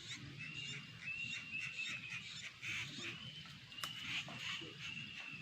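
Bird calling: a run of short, high, level whistled notes repeated over and over, with a few sharp clicks between them.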